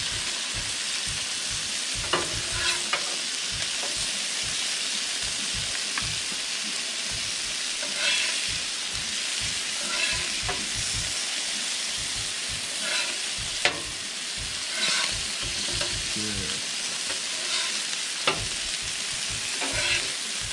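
Walleye fillets sizzling in oil on a Blackstone steel flat-top griddle, a steady hiss. A metal spatula scrapes and clicks against the griddle plate every few seconds as the pieces are turned.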